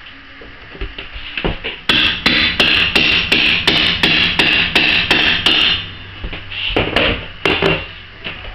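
Hammer striking a laminate floor plank in a fast, even run of blows, about three to four a second for roughly four seconds, then a few scattered knocks.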